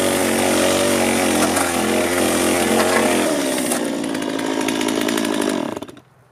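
Handheld power tool brushing out the rotted inside of a hollow log, its motor running under load with a wavering pitch. The sound shifts a little past halfway, then the tool is switched off and winds down near the end.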